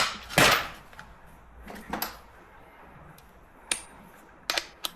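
Metal hand tools clinking and clattering as they are handled, with a sharp clank about half a second in and scattered lighter clicks after.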